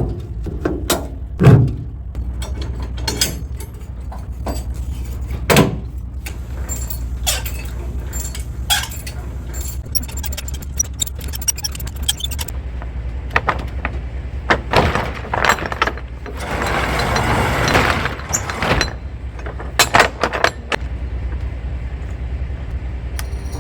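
Tractor-trailer truck's diesel engine idling with a steady low rumble, under a string of clicks, knocks and rattles. A hiss lasting about two seconds comes past the middle.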